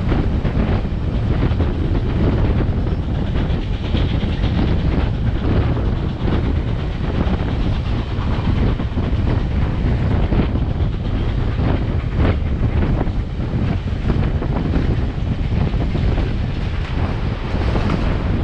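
Excursion train's passenger car rolling along the track, a steady rumble with irregular clacks from the wheels over rail joints. Wind buffets the microphone held outside the car's side.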